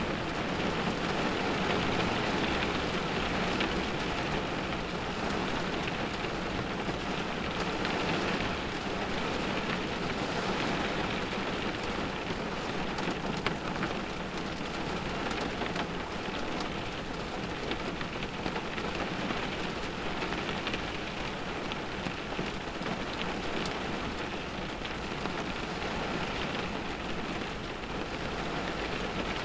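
Rain drumming on a car's roof and windows, heard from inside the car: a dense, steady patter with scattered sharper drop ticks and gentle swells as wind gusts drive the rain.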